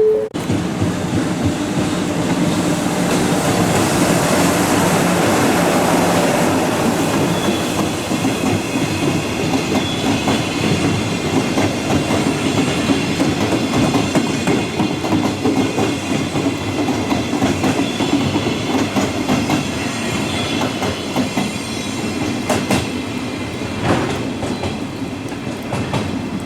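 Train running through a station, its wheels clattering over the rail joints in a long run of clicks, with a faint steady wheel squeal. It is loudest a few seconds in and continues for the whole stretch.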